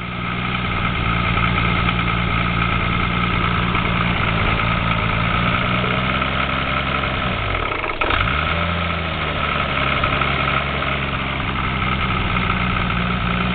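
Toyota 7M-GTE turbocharged straight-six idling at about 1,000 rpm with a knock in it, which the owner takes for rod knock; the engine also has blow-by. About eight seconds in, the idle dips briefly and picks back up, with a single click.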